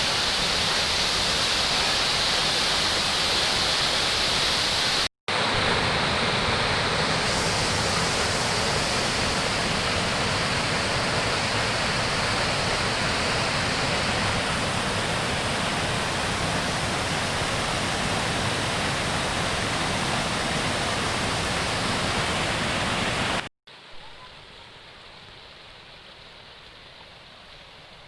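Waterfall's rushing water, loud and steady, broken by a sudden brief cut about five seconds in. Near the end it cuts again, leaving only a much quieter steady hiss.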